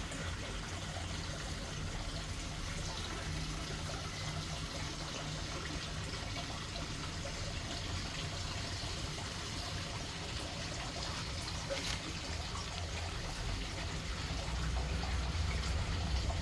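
Small waterfall: water steadily falling and splashing, with a low rumble underneath that grows louder near the end.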